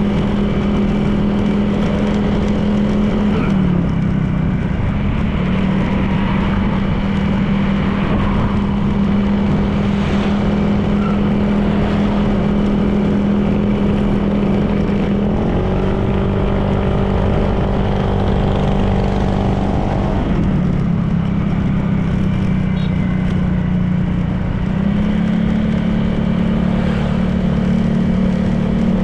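Honda PCX 160 scooter's single-cylinder engine running at a steady cruise under wind and road noise. Its pitch drops slightly about four seconds in and again about two-thirds of the way through, picking back up a few seconds later as the throttle changes.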